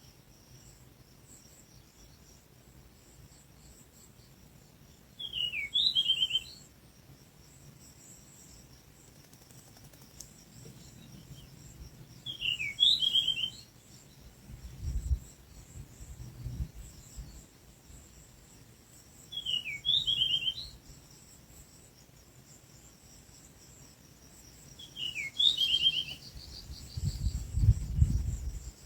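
A bird calling about every six to seven seconds, each call a quick falling note followed by a rapid stutter of notes, over a steady high insect trill. Low rumbles come about halfway through and again near the end.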